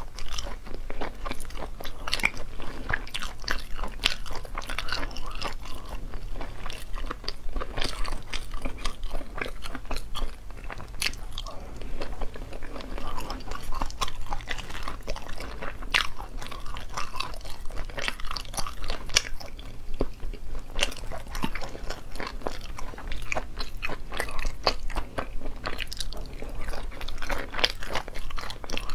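Close-miked chewing and crunching of spicy sea snails in sauce, a steady run of wet clicks and crackles, mixed with the sticky sounds of fingers pulling meat from the shells.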